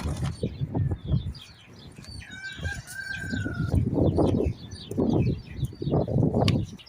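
A rooster crows once, a single held call of about a second and a half near the middle, over short high chirps of small birds. Louder low rumbling and thumping noise comes and goes throughout.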